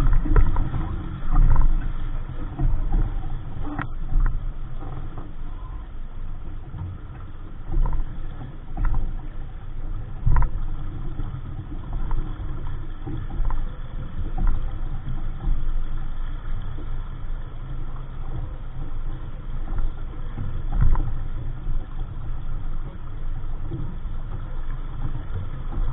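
Wind buffeting the microphone and water rushing past a small sailboat under sail: an uneven low rumble that swells and fades, with a few faint knocks.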